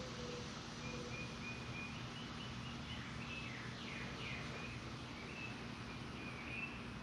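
Faint bird chirps and whistled calls, a few sliding down in pitch near the middle, over a steady low background hum.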